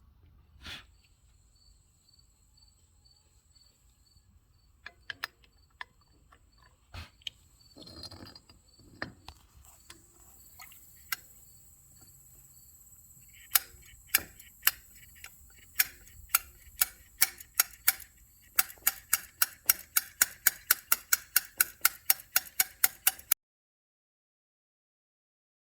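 Ratchet wrench clicking, a few scattered clicks at first, then a steady run that speeds up to about three clicks a second and cuts off suddenly. Crickets chirp faintly underneath.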